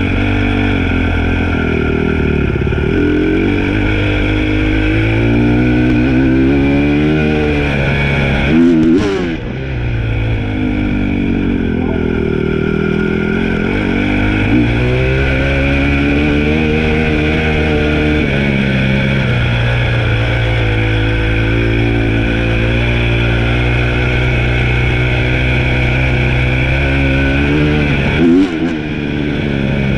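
Dirt bike engine running under way, its pitch rising and falling again and again as the throttle is opened and closed, with a brief sharp break about nine seconds in and again near the end.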